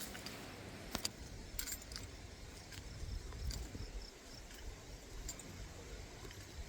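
Faint outdoor ambience: a low rumble, with scattered light clicks and ticks, the clearest about a second in, and a faint high chirring for a second or so near the start.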